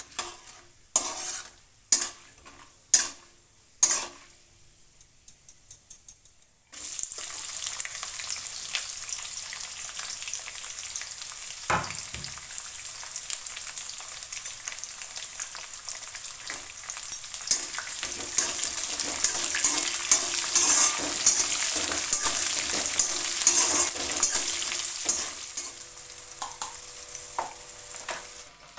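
Peanuts frying in oil in an aluminium kadai, with a steel spatula scraping the pan about once a second. About seven seconds in, a loud steady sizzle starts suddenly and keeps going as sliced onions and green chillies fry in the hot oil and are stirred, with small spatula scrapes and clicks throughout.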